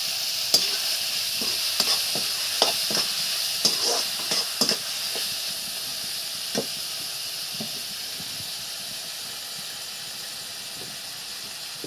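Chopped tomatoes and onions frying with a steady sizzle in a metal kadhai, freshly salted to cook down, while a perforated metal spoon stirs and knocks against the pan with sharp clinks. The clinks stop a little past halfway and the frying hiss carries on, slowly getting softer.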